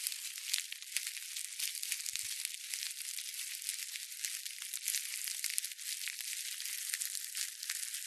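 A snake's hiss: a continuous, high-pitched crackling hiss with no low end that holds steady without a break.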